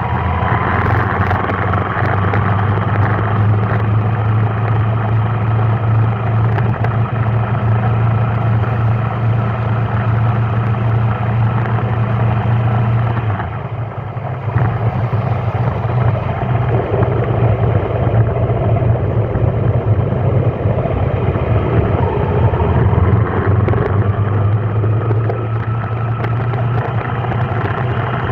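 A vehicle engine running steadily with a low drone and a faint whine that drifts slowly in pitch; the drone eases briefly about halfway through.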